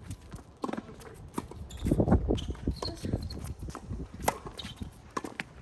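Footsteps and scattered taps on a tennis court between points, with a gust of wind buffeting the microphone about two seconds in.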